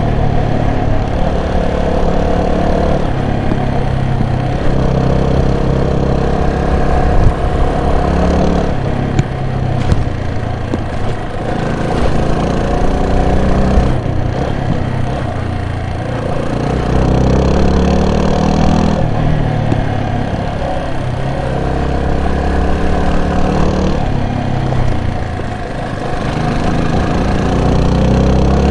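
Vehicle engine running as it is driven, its revs rising and falling every few seconds under changing throttle.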